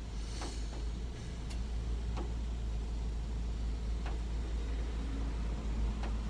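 Car engine idling, heard from inside the cabin as a steady low rumble, with a few faint clicks now and then.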